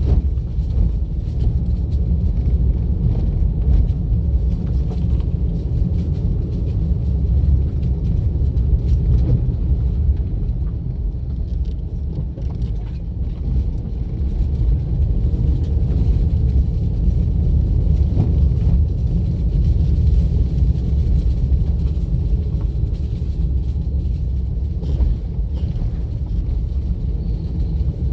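A car driving along a road: steady low rumble of tyres and engine, with small rises and dips in level.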